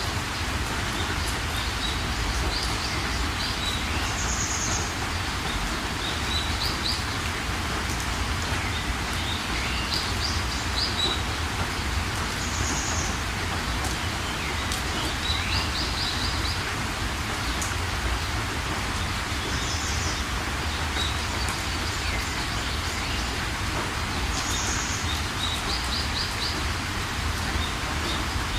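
Steady rain hiss with a low rumble underneath, and a bird chirping a short phrase of quick high notes that recurs about every four seconds.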